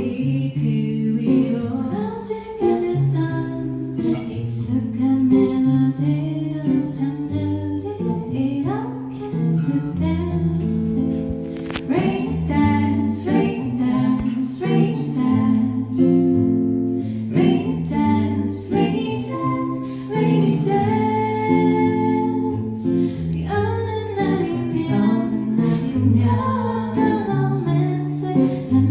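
Live band music: guitar playing with a woman's singing voice.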